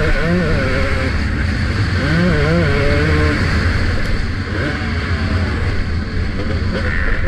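Motocross dirt bike engine revving up and down as the rider works the throttle, the pitch rising and falling several times in the first half and steadier after, heard from a helmet-mounted camera.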